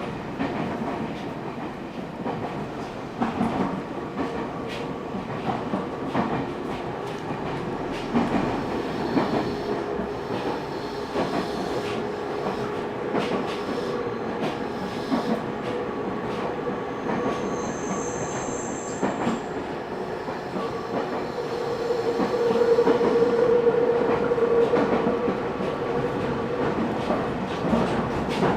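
Train running along the rails with the clickety-clack of wheels over the rail joints. A brief high wheel squeal comes in the middle, and a louder steady tone swells up for a few seconds near the end.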